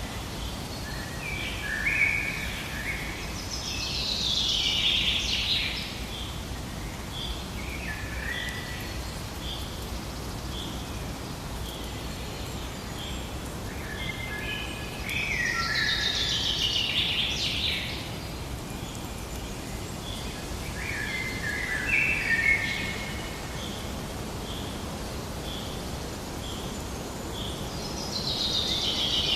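Forest birdsong: a songbird sings a complex phrase every six or seven seconds over a steady background hiss, while another bird repeats a short high note about twice a second.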